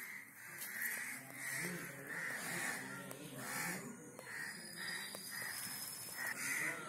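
Birds calling over and over, a short call about every half second.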